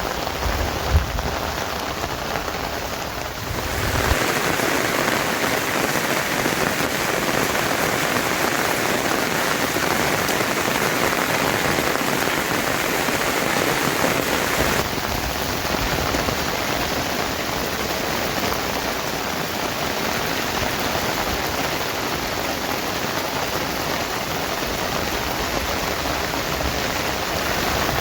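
Steady rain falling, a continuous hiss, with one sharp knock about a second in. The rain grows louder and brighter about four seconds in and shifts in tone again around fifteen seconds.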